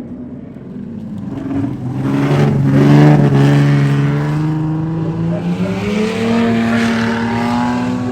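Dirt circuit race cars' engines running hard on track as cars pass. The engine note rises and swells loudest about three seconds in, then climbs again near the end.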